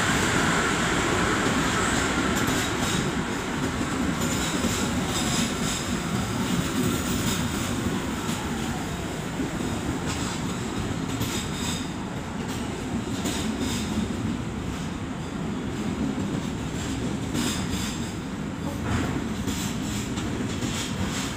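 Passenger train running past a station platform, its wheels rumbling steadily on the rails with a few sharp clicks in the second half. The sound slowly fades as it goes.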